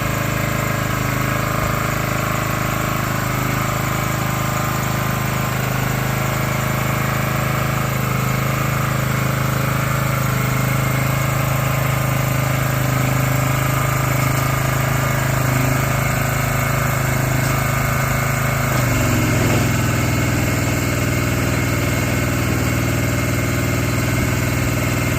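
Engine of a Sungdo engine-powered aerial work platform running steadily; about 19 seconds in, its speed drops slightly and it settles at a lower, even pitch.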